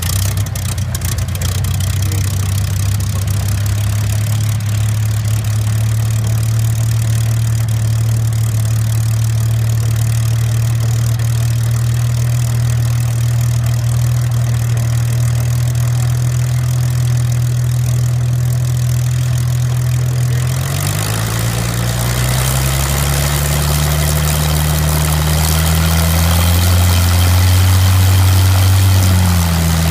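Hawker Hurricane's Rolls-Royce Merlin V12 aero engine running at a steady idle just after a cold start, then revving up about two-thirds of the way through, holding at higher revs and easing back down at the very end.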